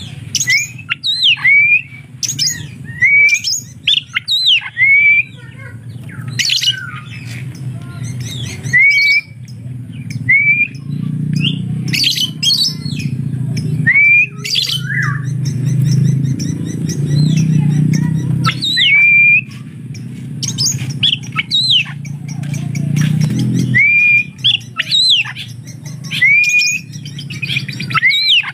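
Oriental magpie-robin (kacer) singing a busy run of short, sharp, up-sweeping squawky chirps that mimic a lovebird's calls, repeated every half second or so with brief pauses. A steady low rumble runs underneath.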